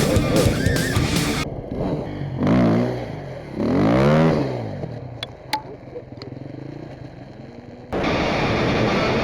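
Background music breaks off after about a second and a half; a dirt bike engine then revs up and back down twice, the second rev longer and louder. The music comes back in near the end.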